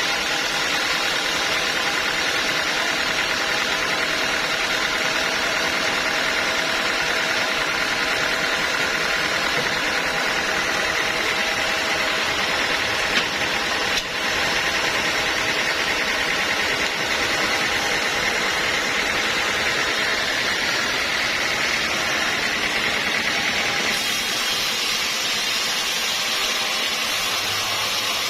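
Sawmill machinery running steadily, a motor hum with a constant high whine.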